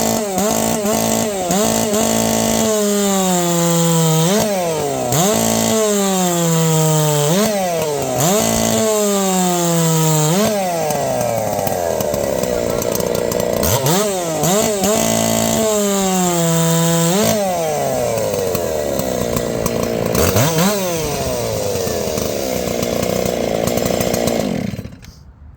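Stihl 660 two-stroke chainsaw fitted with a brand-new 3/8 Stihl 33 RS chain on a 7-pin sprocket, running at full throttle. Its pitch dips sharply and climbs back again and again, then holds lower for several seconds at a time as it pulls down under load in a cut through wood. It stops shortly before the end.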